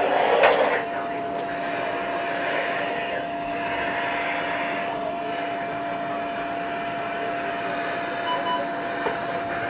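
A steady rushing hiss with a faint constant hum underneath, and a brief sharp sound about half a second in.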